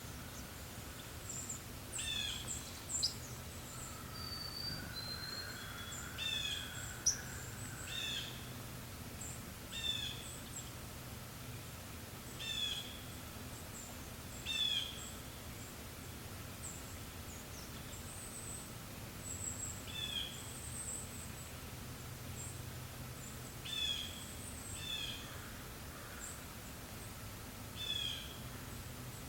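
Forest birds calling: short chirps that fall in pitch repeat every second or two, with a couple of thin high whistles a few seconds in, over a faint steady low background hum.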